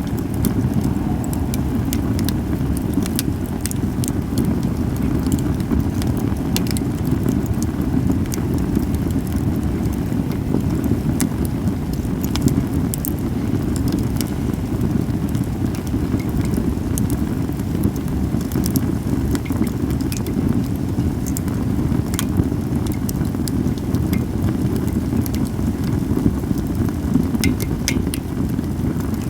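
Cedar firewood burning in a campfire, crackling with sharp pops scattered irregularly over a steady low rumble.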